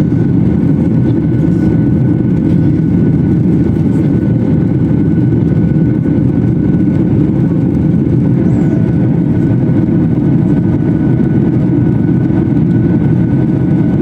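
Steady, loud cabin noise inside a passenger airliner in the climb after takeoff: the rumble of the jet engines and rushing air, with faint steady whines above it.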